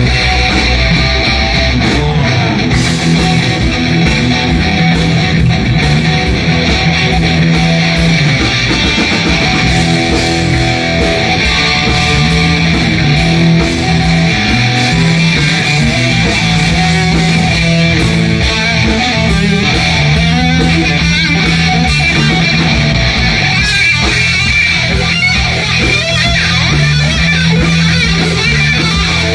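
A live blues-rock band playing an instrumental passage, led by electric guitar over a steady bass line.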